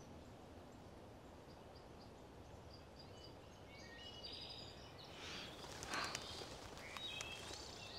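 Faint bird calls over a quiet woodland background: short high chirps and whistles, sparse at first and busier in the second half. A couple of soft rustles come partway through.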